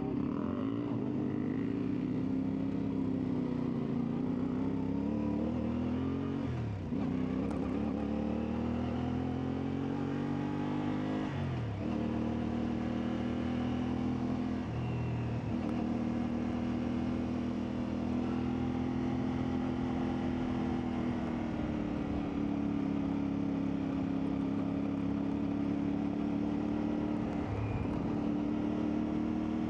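CFMoto 450MT parallel-twin motorcycle engine running under load, its pitch rising and falling with the throttle. The revs drop briefly four times, about a quarter, a third and half of the way through and again near the end, as the throttle closes or the gears change.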